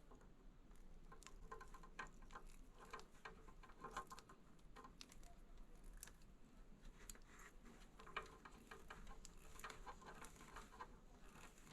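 Faint, irregular small clicks and rustles of thin wires being handled and twisted into a plastic wire nut.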